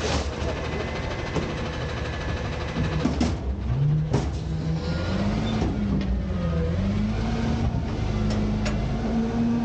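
Diesel engine of an Autocar garbage truck running, then revving up about four seconds in and holding at higher revs, as it does to drive the packer's hydraulics while dumping bins. Several sharp metallic knocks come over it, one at the start and two more a few seconds in.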